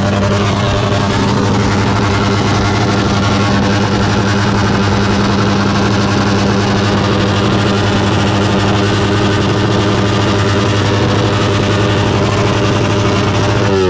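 Car engine running at steady revs: a loud, even drone that neither rises nor falls.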